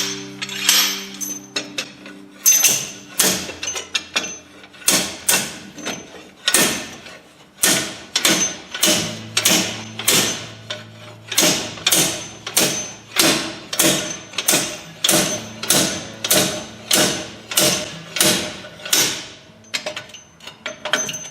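Regular sharp knocks, about one and a half a second with short ringing tails, over background music with held low notes.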